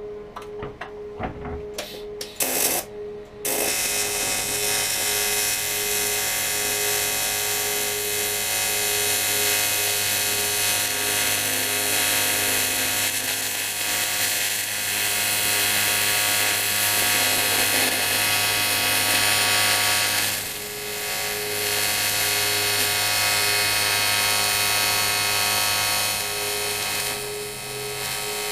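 AC TIG welding arc on cast aluminium alloy: a few sharp clicks as the arc strikes, then a steady, loud electric buzz from about three and a half seconds in. The buzz falters briefly about two-thirds of the way through, then carries on.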